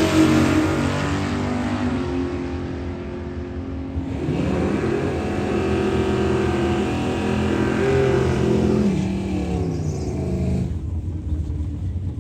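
Drag-racing car engines accelerating hard down the strip. The first fades away over the opening seconds; about four seconds in another engine rises through the revs with shifts in pitch, then drops away near the end.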